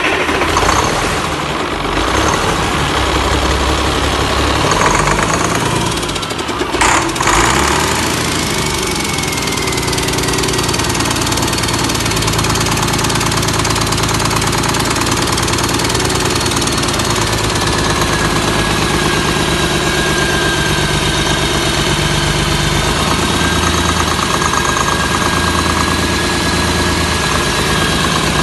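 1996 Cummins M11 CELECT 10.8-litre six-cylinder diesel engine running steadily at idle on a test run. A short knock sounds about seven seconds in, and a faint whine slides down a little and then holds steady.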